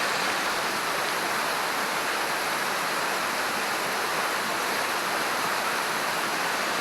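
Steady rush of a fast-flowing river, an even unbroken hiss of water.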